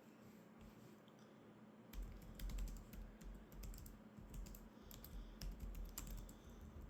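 Typing on a computer keyboard: a quick run of keystrokes begins about two seconds in, each with a sharp click and a soft low thud, and stops just before the end.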